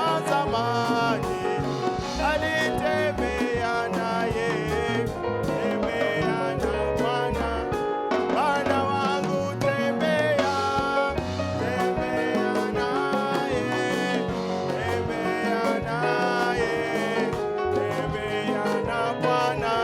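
Worship music: a band playing a lively gospel song with a steady beat, with some singing.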